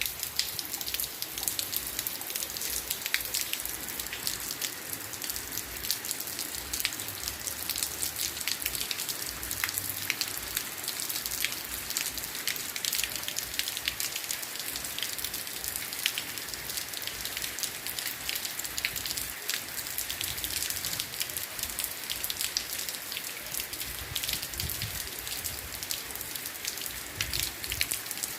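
Steady rain falling, a continuous hiss with many separate drops ticking close by.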